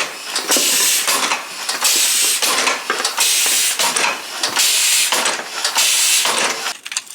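Compressed-air engine of a homemade locomotive running, its air exhaust hissing in irregular pulses about one to two a second. It drops away near the end.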